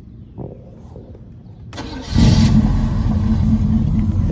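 Box Chevy's engine, freshly tuned with new spark plugs and plug wires, cranking briefly on the starter about two seconds in and catching on the first try, then running steadily.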